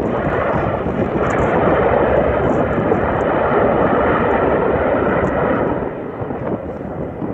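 C-130 Hercules four-engine turboprop passing on its landing: a loud, steady engine and propeller rush that swells about a second in and eases off near the end.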